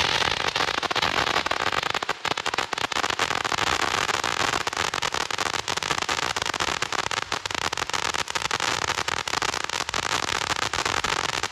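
Firecrackers going off in a dense, rapid, continuous crackle of pops that does not let up.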